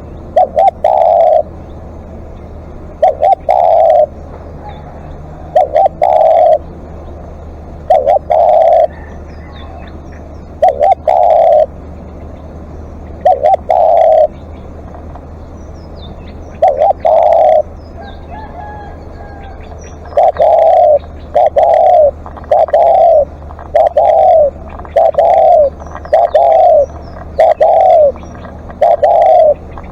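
Spotted dove cooing, loud and close. Each call is a short note followed by a longer cooing phrase, repeated about every two and a half seconds, then faster, roughly once a second, from about two-thirds of the way through.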